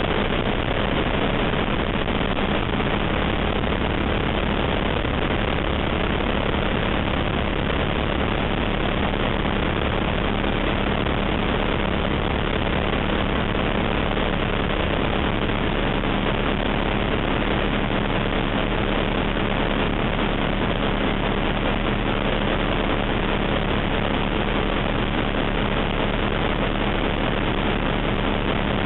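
ATEC Zephyr ultralight's engine and propeller running steadily during take-off and climb-out: a constant drone with a steady low hum, unchanging in level.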